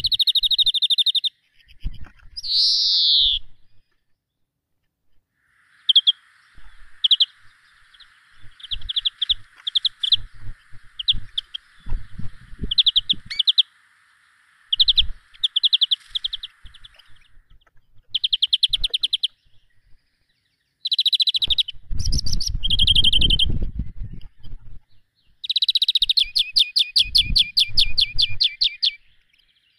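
Small birds chirping and singing in short bursts of rapid, high trills throughout. A faint steady hiss runs underneath for a stretch in the middle, and low rumbling comes in briefly about two-thirds of the way through.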